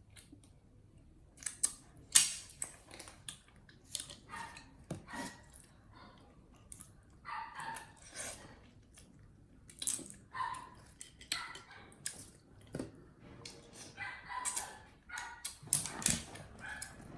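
A baby monkey giving short, repeated squeaks and whimpering cries, mixed with sharp clicks and knocks.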